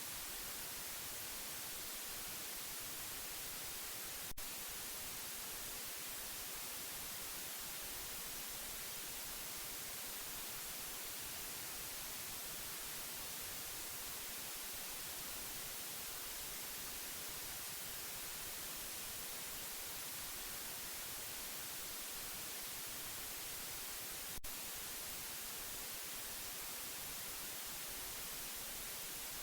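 Steady white noise, an even hiss strongest in the treble, with two brief clicks about twenty seconds apart.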